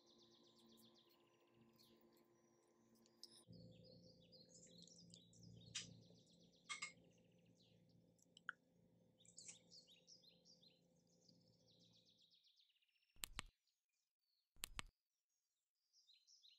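Faint birds chirping over a low steady hum. The hum stops about three-quarters of the way through, and two short clicks follow near the end.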